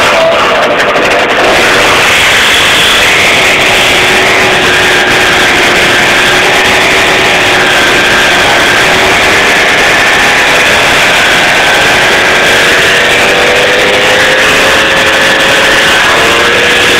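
50cc two-stroke moped engine tuned with a full Pro Race setup, running hard at high revs. It is very loud and distorted, its pitch held high and climbing slowly and steadily.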